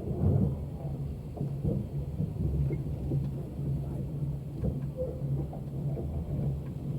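Low steady rumble of the KTM sleeper train, with scattered short knocks and clicks.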